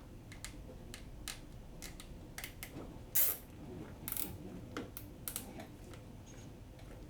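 Nylon zip tie being cinched: scattered small plastic clicks and short rasps as its teeth pull through the ratchet, the loudest rasp about three seconds in.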